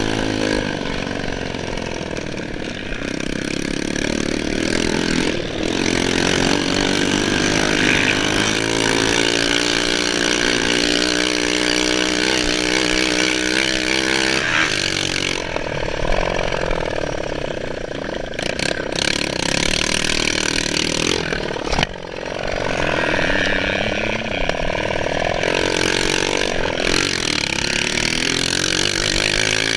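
Motocross bike engine revving up and down again and again as it is ridden, its pitch rising and falling with the throttle. A few sharp knocks cut through it in the second half.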